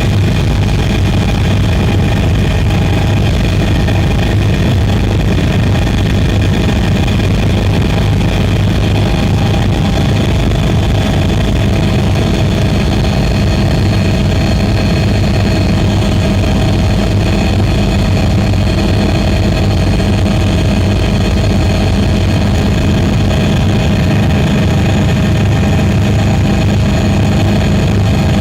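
Drone's motors and propellers running steadily: a loud, even hum with several steady whining tones held throughout.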